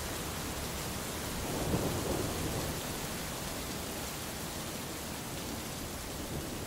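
Steady rain falling, with a low rumble of thunder swelling about a second and a half in and fading over the next second or so.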